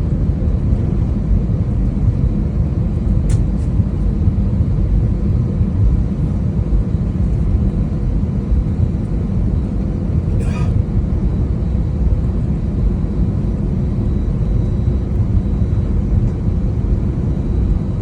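Airbus A320-200 cabin noise: a steady, loud low rumble of the engines and airflow, with a faint steady hum over it. A single click about three seconds in and a short rattle about ten seconds in.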